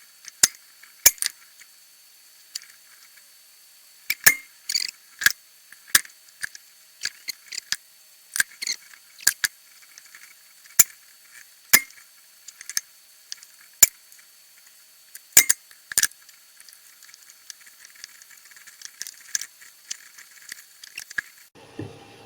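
Irregular sharp clicks and light taps of small tools and parts being handled during soldering work, about one or two a second. A low steady hum comes in near the end.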